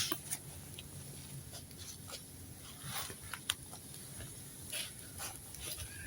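Campfire crackling: irregular sharp pops and snaps, a few each second, over a faint steady hiss.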